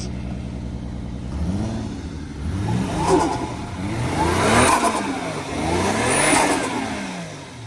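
Twin-turbo straight-six of a 1996 Toyota Soarer idling, then blipped about four times, each rev climbing and falling back smoothly.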